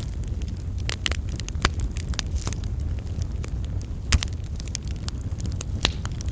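Wood fire burning in a fireplace: a steady low rumble of the flames with irregular sharp crackles and pops, the loudest pop about four seconds in.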